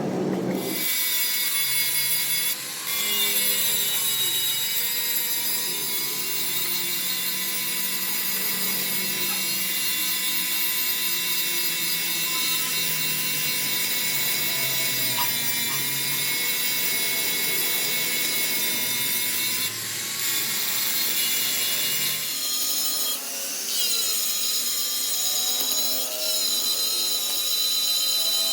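Power tool or machine working metal, a steady high-pitched whine made of several tones. It briefly dips about three seconds in and again around twenty seconds, and its pitch shifts about twenty-two seconds in.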